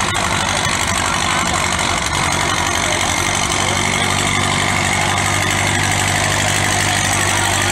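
Antique tractor engine running steadily at a constant speed, pulling the weight sled down the track.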